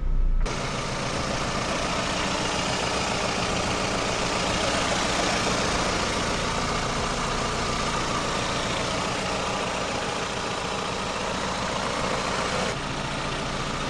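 1998 Toyota RAV4's 2.0-litre four-cylinder engine idling steadily, just started on fresh oil after an oil change. It comes in suddenly about half a second in.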